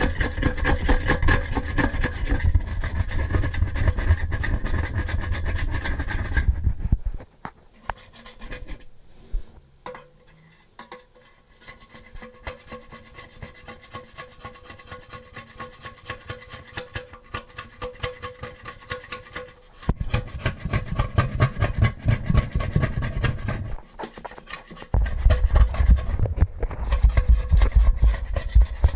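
A metal spoon scraping rust and limescale off the inside of a tea kettle in quick, repeated strokes. The scraping is loud at first, softer for a long stretch in the middle, then loud again near the end.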